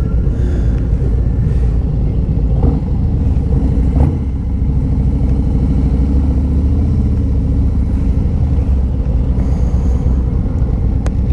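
Harley-Davidson touring motorcycles' V-twin engines idling and running slowly in a steady low rumble while parking, with a short click about four seconds in and another near the end.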